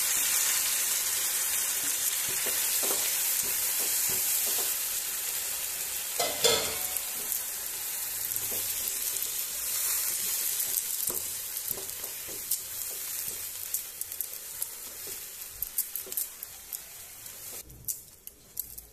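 Grated apple sizzling in hot ghee in a nonstick kadhai while a silicone spatula stirs it, with scraping and light taps against the pan. The sizzle is loud at first, fades steadily, and is nearly gone near the end, leaving mostly the spatula's scrapes.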